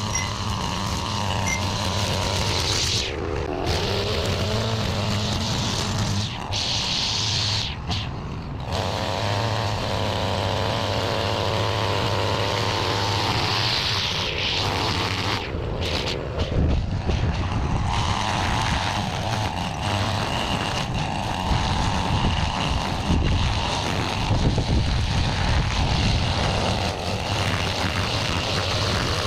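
Small gas engine of a lawn-care tool running steadily.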